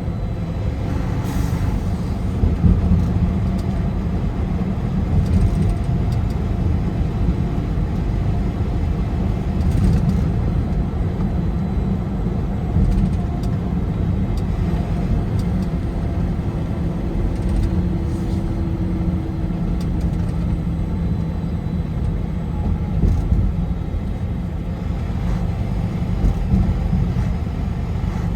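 Car driving at highway speed: a steady, low rumble of engine and tyre road noise.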